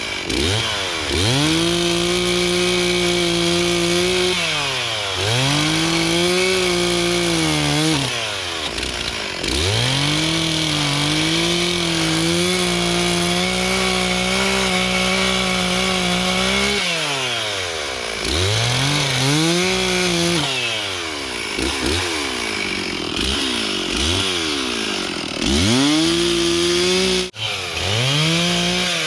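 Stihl two-stroke chainsaw cutting wood: the engine revs up to full throttle and holds there through each cut, then drops back to idle, about nine times. The longest cut runs about eight seconds in the middle, and the cuts get shorter and quicker near the end.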